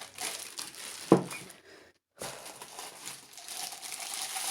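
Plastic packaging crinkling as items are handled and unpacked, with one sharp knock about a second in. The sound drops out completely for a moment about two seconds in.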